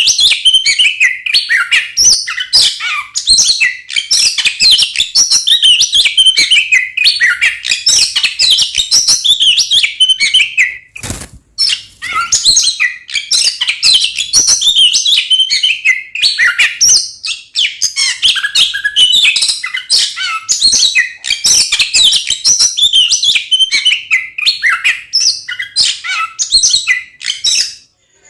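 Oriental magpie-robin (kacer) singing a fast, unbroken stream of varied chirps and whistles, the agitated 'fighting' song. There is a brief pause about eleven seconds in.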